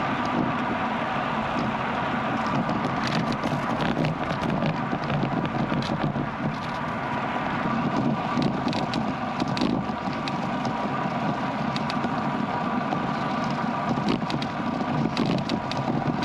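Bicycle riding along a road: steady tyre and road noise with wind on the microphone, and frequent small clicks and rattles.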